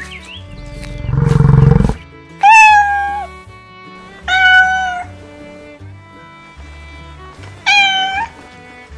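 An animal gives a loud, low, rough growl, then three high pitched calls, each under a second long, that slide down at the start and then hold steady. Background music plays under them.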